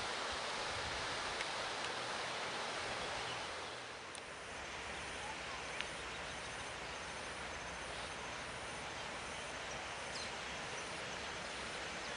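Fast-flowing mountain river water rushing, a steady even hiss. It dips slightly about four seconds in, after which a faint high-pitched pulsing repeats about one and a half times a second.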